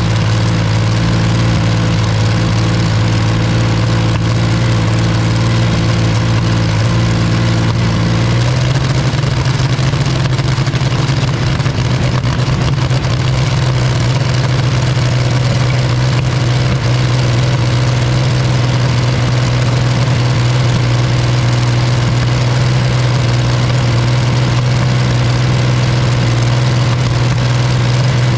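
Rolls-Royce Meteor V12 engine running loud and steady. About eight seconds in, its note shifts slightly and turns rougher, then holds.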